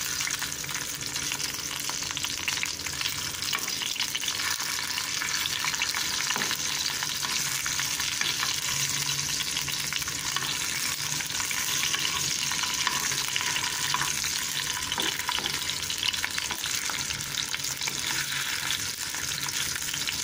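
Chicken seekh kebabs shallow-frying in oil in a pan over a medium flame: a steady sizzle with fine crackling.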